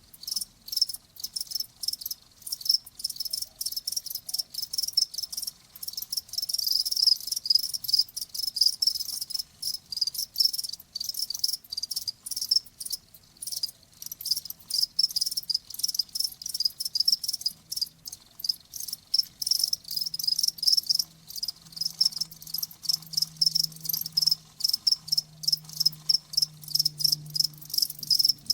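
Crickets chirping: rapid, repeated high-pitched pulses that overlap into a continuous chorus.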